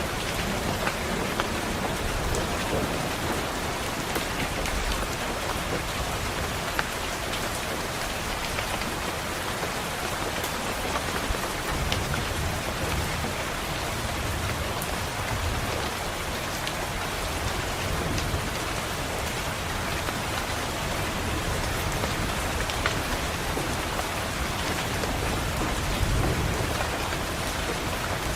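Steady rain pattering on a window, with scattered sharp drop ticks. Low thunder rumbles swell up about midway and again near the end.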